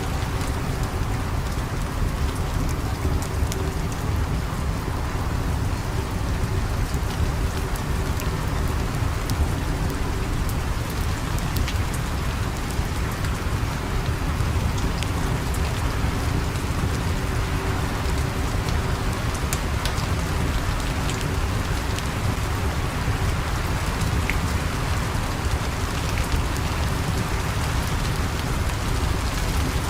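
Steady heavy rain falling, a dense even hiss weighted toward the low end, with scattered faint sharp ticks.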